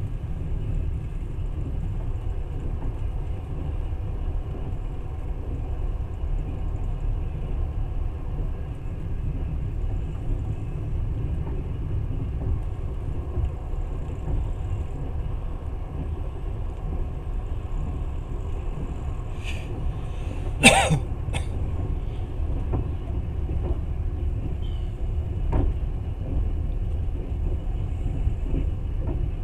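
Steady low rumble of a moving passenger train, heard from inside the carriage. A single sharp knock about 21 s in stands out above it, with a few fainter ticks nearby.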